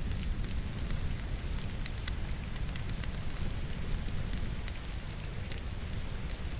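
Wood logs burning in a fireplace, crackling with irregular sharp pops over a steady low rumble, mixed with the even hiss of falling rain.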